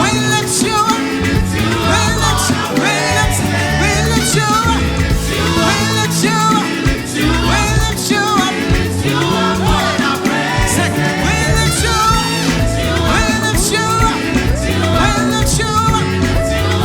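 Live gospel worship band playing an upbeat song with a steady beat, with singing over it.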